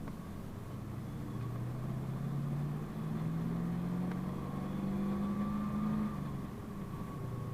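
PAZ-32054 bus's V8 petrol engine pulling away, its note rising steadily for about five seconds, then falling off sharply near the six-second mark as the driver shifts gear or eases off.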